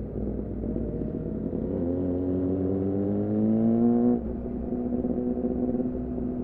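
2014 Yamaha R6 inline-four sport bike engine through an R9 titanium muffler and Leovince header, running steadily, then pulling with a rising pitch for about two seconds before cutting off sharply about four seconds in and settling back to a steady run.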